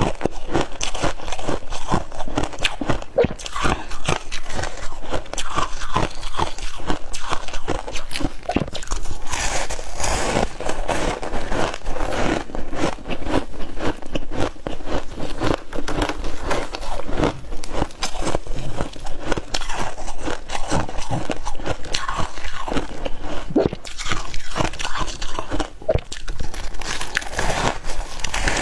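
Crispy frost ice being bitten and chewed, a dense run of crunching that goes on without a break.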